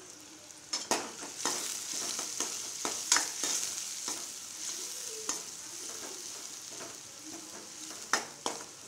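Chopped onion sizzling in hot oil in a metal kadai, with a steady high hiss. A steel spoon stirs it, scraping and knocking against the pan several times.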